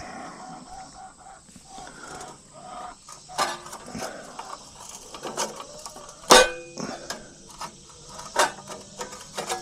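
Scattered taps and clinks of hand work on metal HVAC equipment, with one sharper metallic clank about six seconds in that rings briefly.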